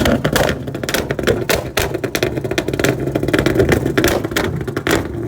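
Car engine revving hard, with a dense, irregular crackle running through it.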